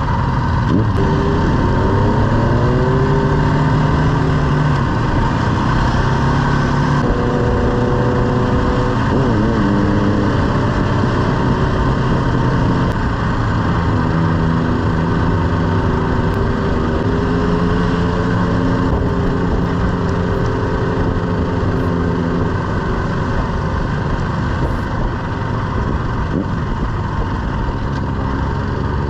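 BMW G310GS's single-cylinder engine pulling under way. Its note rises in the first few seconds, holds, falls and climbs again as the bike accelerates and eases off, over a steady rush of wind and road noise.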